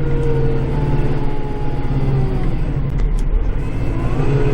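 Kubota tractor's diesel engine running steadily, heard from inside the cab, with a whining tone that drops slightly in pitch partway through and rises again near the end.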